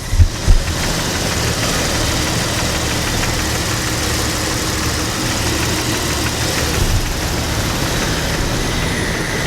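Jeep Wrangler TJ engine idling rough with a knocking sound from inside the engine, while it logs misfire codes P0300 and P0304 (random and cylinder 4 misfire). Two loud thumps come just at the start, then the running stays steady.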